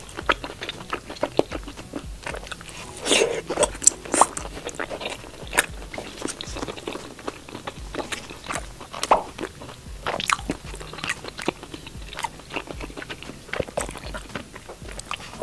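Close-miked mouth sounds of someone biting and chewing skewered food, coming as many irregular sharp clicks.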